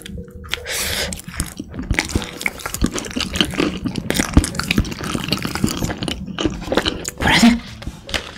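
A person chewing a bite of teal macaron close to the microphone: a steady run of small crunches and wet mouth clicks.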